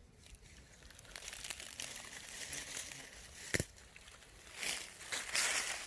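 Dry leaves and forest undergrowth rustling and crunching as someone moves through them, with one sharp snap about three and a half seconds in.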